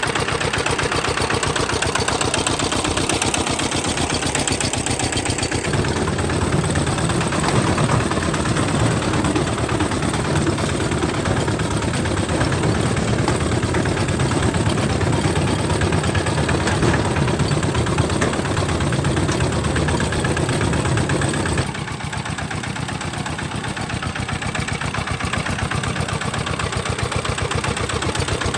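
Homemade tractor's engine running steadily with a rapid, even chug. It grows heavier in the low end about five seconds in, then drops abruptly in level about 22 seconds in.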